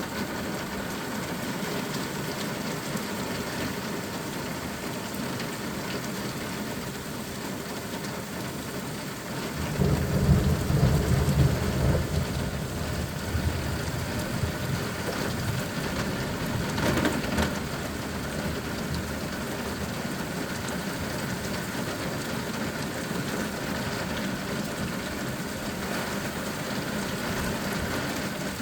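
Steady rain falling, with a low roll of thunder about ten seconds in that lasts about three seconds, and a smaller swell of sound a few seconds later.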